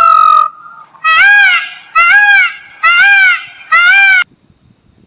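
Peacock calling: one long call, then four short loud calls about a second apart, each rising and falling in pitch.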